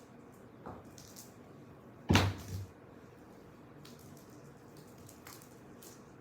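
A single heavy thump about two seconds in, a tabby cat landing from a big jump, with a few light taps and clicks around it.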